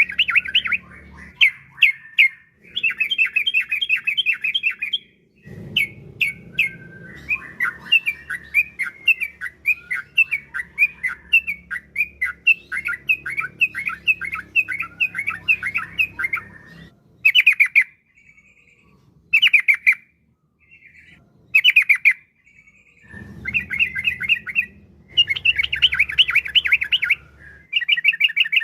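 Yellow-vented bulbul (trucukan) singing rapid runs of bubbly chirps in several long bursts with short pauses between them, the kind of song played to lure other bulbuls into answering.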